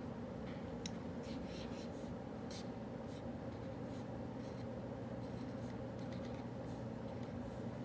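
Writing on paper by hand: short scratchy strokes in bursts, over the steady low hum of a study café.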